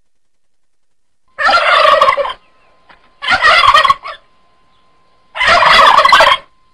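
Turkey gobbling three times, each gobble about a second long, with short pauses between.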